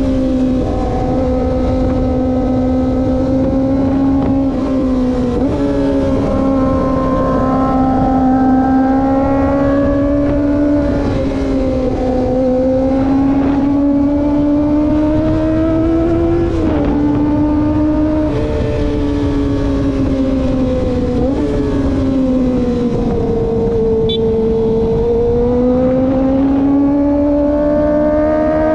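Kawasaki ZX-25R's 250 cc inline-four engine running at high revs under way, its high-pitched note climbing and dropping with several gear changes, over wind rush on the microphone.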